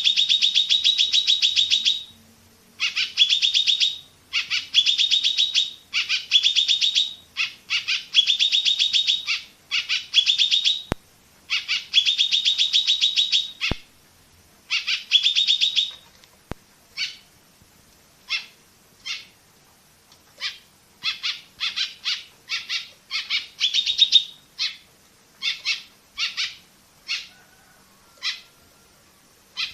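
Kolibri (a sunbird, as Indonesian bird-keepers use the name) singing: bursts of rapid high chirps lasting one to two seconds with short pauses between them, changing after about sixteen seconds to shorter, separate chirps.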